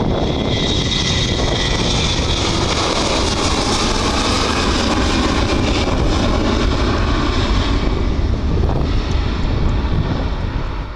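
Airliner engines passing close by: a loud, steady engine noise with a high whine over it, easing off near the end.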